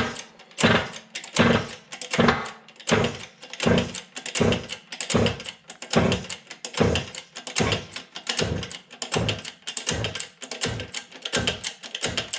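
A shop press worked in steady repeated strokes, about three every two seconds, quickening to nearly two a second after about eight seconds. It is forcing a tight steel wrist pin bushing out of a tractor connecting rod.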